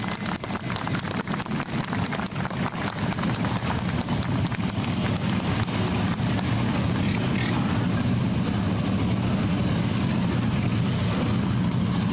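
Several Harley-Davidson police motorcycles running together, a low steady engine sound that grows louder over the first few seconds and then holds.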